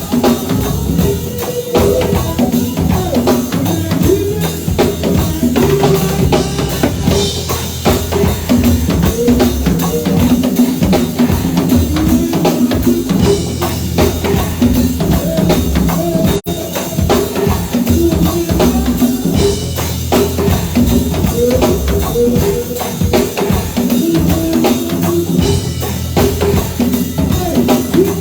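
Live band playing an instrumental passage with a drum-kit beat and moving low notes, with a very brief audio dropout a little past halfway.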